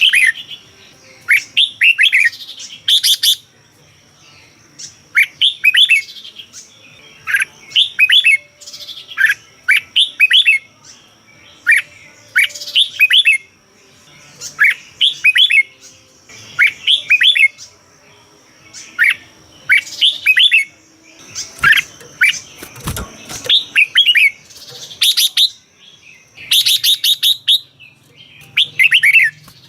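Red-whiskered bulbul singing: short phrases of quick, bright, sweeping notes repeated every second or two, with a faint steady high whine behind them through the middle.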